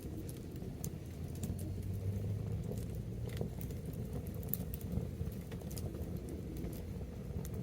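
Wood bonfire crackling: irregular sharp snaps and pops over a steady low rumble.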